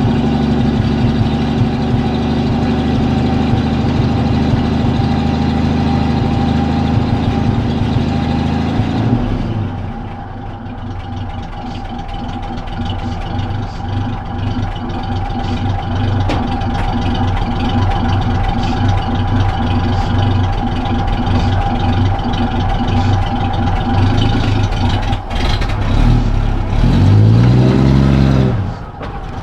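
1970 Chevrolet C10 pickup's engine running steadily, easing down about a third of the way in, then briefly revving up and back down near the end.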